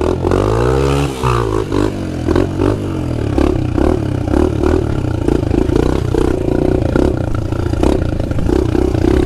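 Pit bike engine revving up and falling back, then running in choppy throttle bursts as the bike is ridden, with some clatter.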